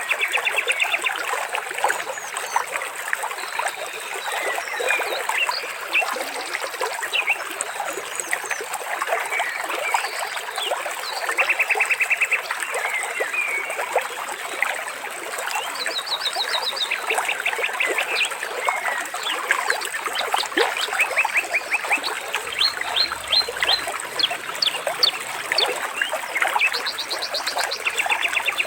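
Water trickling and splashing without a break, with many birds chirping and short rapid trills coming every few seconds.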